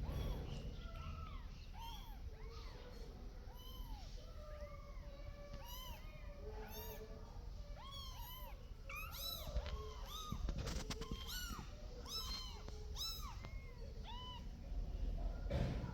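Several young kittens mewing over and over, short high cries that rise and fall in pitch and overlap one another.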